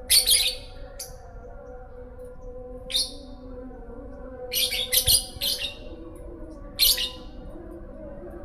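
Lovebird giving short, shrill chirps in separate bursts, several in quick succession near the middle: a young bird practising the konslet song.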